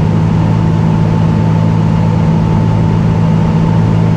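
Cessna 206 Turbo's six-cylinder piston engine and propeller droning steadily, heard inside the cockpit, with a thin steady whine above the low drone.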